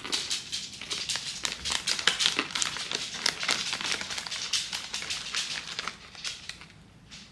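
Close crunching of pumpkin pie spice caramel corn being chewed, a dense run of crisp crackles that thins out near the end.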